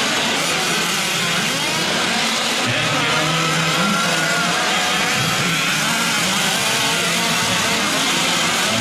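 Several 1/5-scale gas RC trucks' small two-stroke engines racing together, revving up and down and overlapping.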